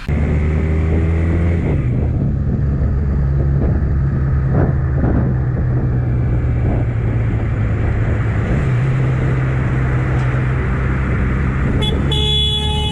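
A road vehicle's engine runs steadily under road noise. A car horn sounds for about a second near the end.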